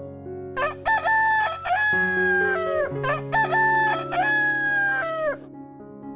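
An animal calling twice in a row, each call a couple of short notes followed by a long held note that drops at the end, over soft piano music.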